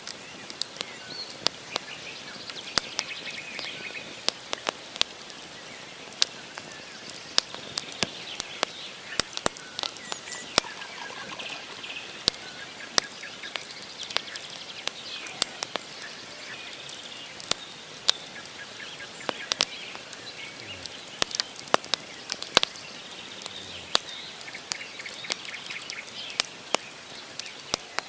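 Wood fire crackling, with many irregular sharp pops from the burning logs, while small birds chirp and call.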